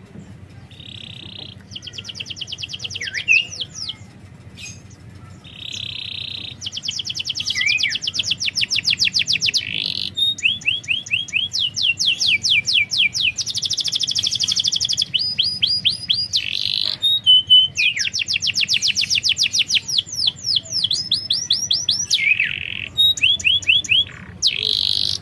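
Domestic canary singing a string of fast trills. Each is a rapid run of repeated notes lasting a second or two, changing pattern from run to run with short breaks between.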